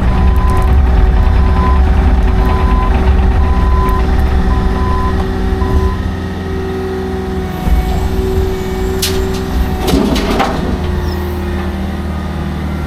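Diesel engine of a heavy work truck or machine running steadily, its reversing alarm beeping about one and a half times a second until it stops about six seconds in. A short noisy burst comes about ten seconds in.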